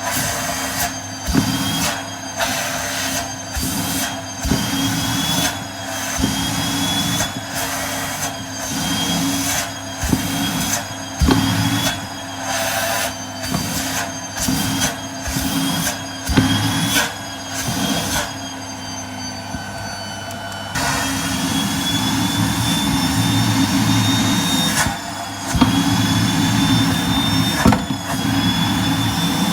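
Vacuum cleaner motor running with a steady high whine, its nozzle sucking against the body. For the first twenty seconds or so the airflow sound breaks and surges about once a second as the nozzle seals and lets go, then it runs steadier.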